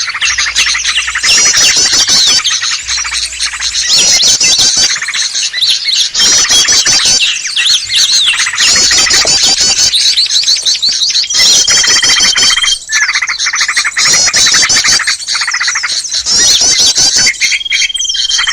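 A loud, dense chatter of many small songbirds in agitated, scolding calls, coming in rapid bursts about every second and a half. A short held whistle cuts through twice, once midway and once near the end. It is a bird-luring (pikat) call mix, meant to draw small wild birds in.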